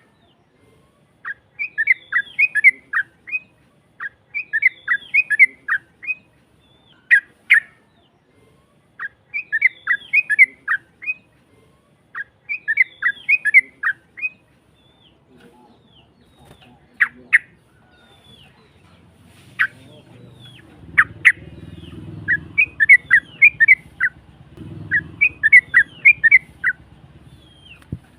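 Yellow-vented bulbul (trucukan) singing in a rough voice: short phrases of several quick chirping notes, repeated every two to three seconds, with single sharp notes in between. A low rumble joins in about two-thirds of the way through.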